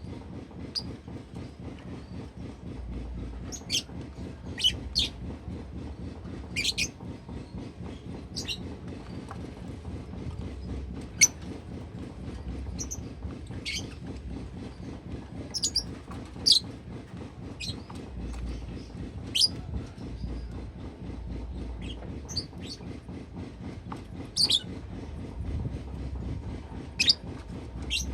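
Lovebird giving short, high chirps at irregular intervals, one every second or two, over a steady low rumble.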